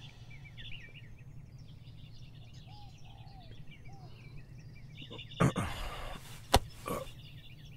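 Quiet room ambience with small birds chirping in the background. Near the end, a short burst of sound and then a sharp click.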